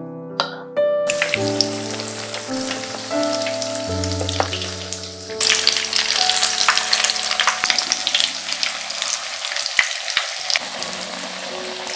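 Breaded zucchini strips frying in olive oil in a pan: a steady crackling sizzle that grows louder about five seconds in.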